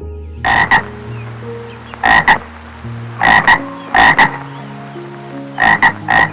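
A frog croaking in short double-pulsed calls, about six times at irregular intervals of roughly one to one and a half seconds.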